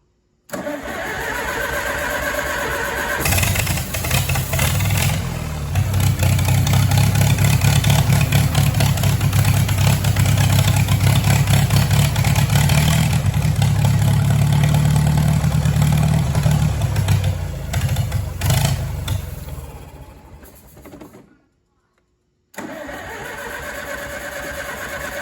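Farmall tractor engine turned over by the starter, catching about three seconds in and running steadily, then fading out. Near the end the starter cranks it over again.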